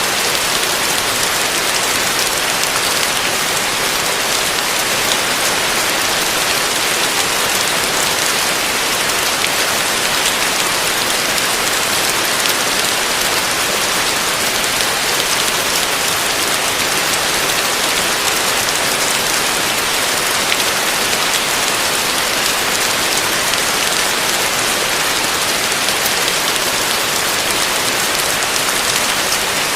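Heavy rain falling steadily: an even, unbroken hiss with fine scattered patter of drops.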